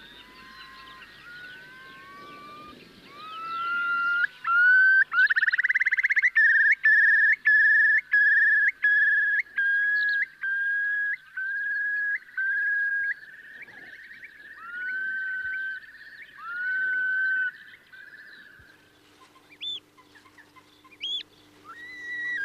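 Male curlew song: slow rising whistled notes that speed up into a long bubbling trill of repeated upslurred notes, then ease back into separate slurred whistles. This is the courtship song that claims a mate and a territory. Near the end a few short, sharp, higher whistles come in over a faint steady hum.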